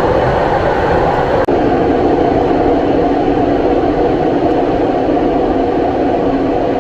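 Line 5 Eglinton light-rail train running underground, a steady rumble and hum heard from inside the car. The sound drops out for a split second about a second and a half in.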